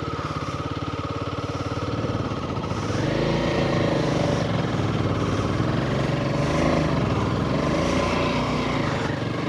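Royal Enfield Himalayan 450's single-cylinder engine running under throttle on a muddy climb. The engine picks up revs and gets louder about two to three seconds in, then holds.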